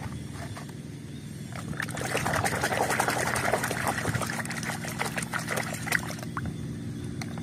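A hand swishing through water in a plastic tub to wash a muddy toy, splashing and sloshing, busiest from about two seconds in until about six seconds in.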